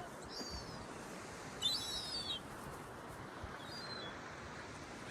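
Seagulls calling: three high, falling calls, the loudest about two seconds in, over a steady background hiss.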